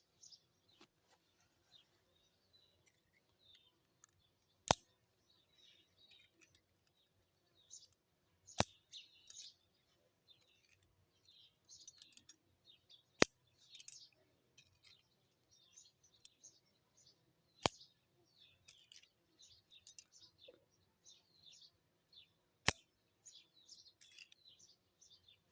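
Small birds chirping, broken by a sharp click about every four and a half seconds, five in all.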